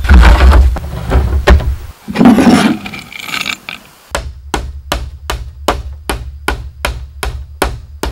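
A tool striking bamboo. Loud, irregular knocks and a brief scraping rustle come first, then about halfway in a fast, even run of sharp knocks, about three a second.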